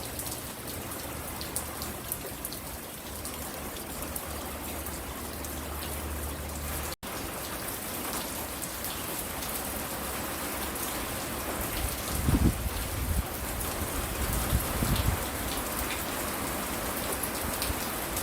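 Steady rain falling, with individual drops ticking close by. The sound cuts out for an instant about seven seconds in, and a few low thumps come in the second half.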